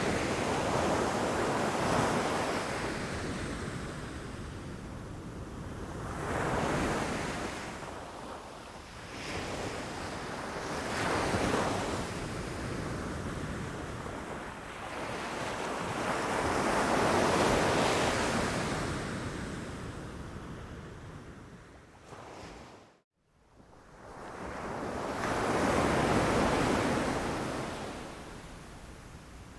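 Ocean waves breaking against rocks, about five waves surging and washing back at uneven intervals. About two-thirds of the way through, the sound cuts out for a moment before the next wave rises.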